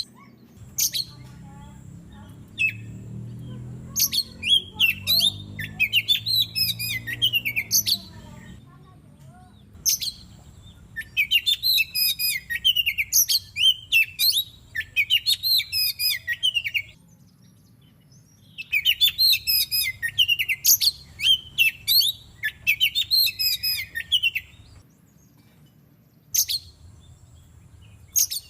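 Oriental magpie-robin (kacer) singing: bursts of rapid, varied whistled phrases lasting several seconds each, separated by pauses with short single calls.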